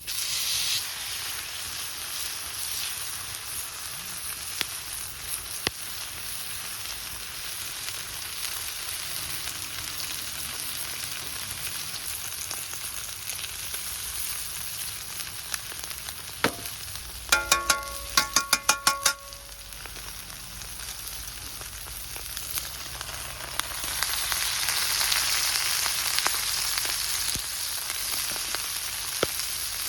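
Steady sizzling hiss that grows louder a few seconds before the end. A little past halfway comes a quick run of about eight short, squeaky pitched notes.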